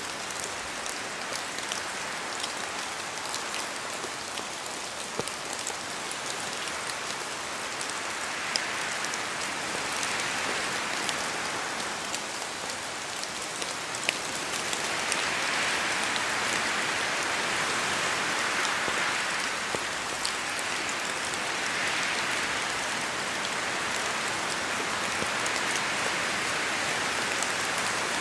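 Steady rain falling through forest trees, a dense hiss of drops with scattered single drops ticking on leaves; it swells somewhat louder about halfway through.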